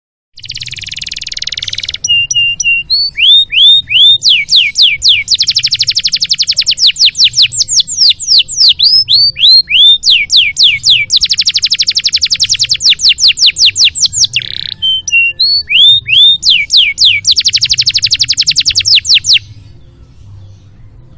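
Domestic canary singing a long, full song: a hissing rattle first, then runs of fast repeated downward-sliding whistles and long rapid trills, ending abruptly near the end. A faint low hum lies underneath.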